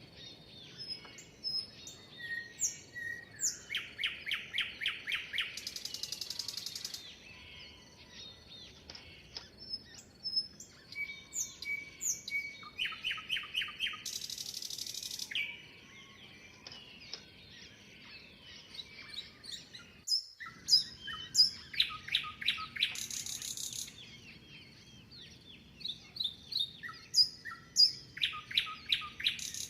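A songbird singing the same phrase again and again, about every eight or nine seconds: a quick run of clear notes ending in a high buzzy trill, with softer chirps from other birds in between. The sound drops out completely for a split second about two-thirds of the way through.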